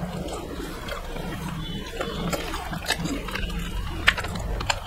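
Close-miked eating sounds: chewing with wet mouth clicks and lip smacks scattered throughout, the sharpest about four seconds in, over a steady low hum.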